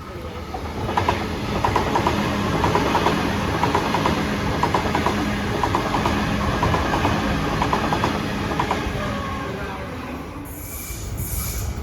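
Electric suburban passenger train running past close by, its wheels clattering in a repeated rhythm over the rail joints over a steady low hum. It swells in over the first second and eases off after about nine seconds.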